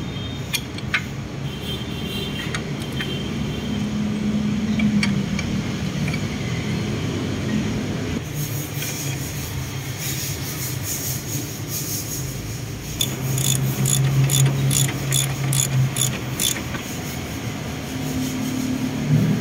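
A steady low mechanical hum under a run of quick, sharp metallic clicks and taps from hand tools working on the engine mount, thickest in the middle of the stretch; a few single clicks come in the first seconds.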